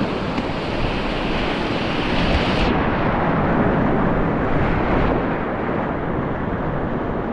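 Steady rush of a river running through rapids, with wind noise rumbling on the microphone.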